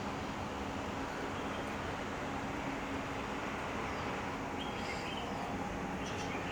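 Steady urban background noise: a constant low hum with distant traffic, with a few faint short high chirps near the end.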